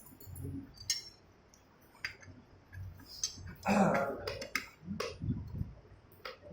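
Scattered light metallic clicks and clinks of hand tools and motorcycle engine parts being handled on a workbench, with a louder, duller clunk just under four seconds in.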